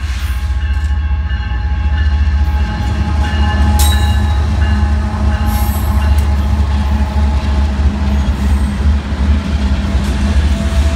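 A freight train's GE diesel locomotives, a new ET44C4 among them, passing through a grade crossing with a deep steady engine drone. The crossing's electronic bells ring over it.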